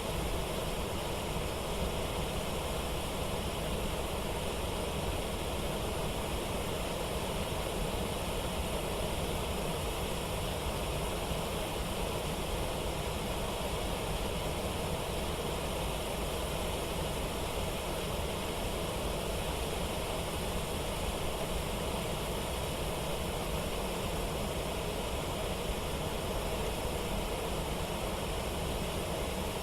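Steady rush of water pouring over a waterfall and rapids, even and unbroken throughout.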